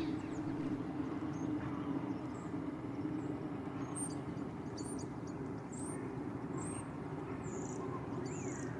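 Ring-necked parakeets calling out of sight: a run of short, shrill, high calls begins about four seconds in and repeats every half second to a second, over a steady low background rumble.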